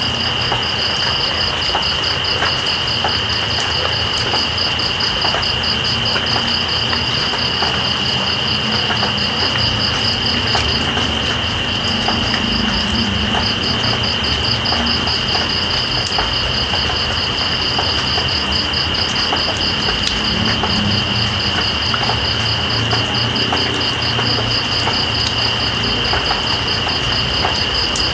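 Steady rain with night insects calling over it: one a continuous high shrill tone, the other a fast pulsing trill that breaks off briefly about eleven seconds in.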